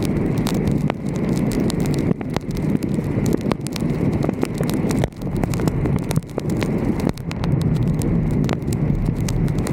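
Wind rushing over the microphone of a vehicle's roof-mounted 360° camera, a steady low rumble, with frequent irregular sharp ticks of raindrops striking the camera.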